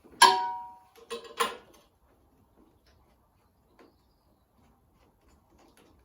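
A sharp clank that rings on briefly, then two lighter knocks, from hard parts or tools being handled while the fuel feed line is undone.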